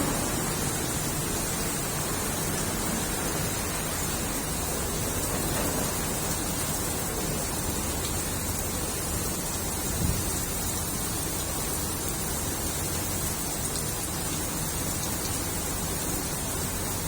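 Steady rain falling, an even hiss, with one brief low thump about ten seconds in.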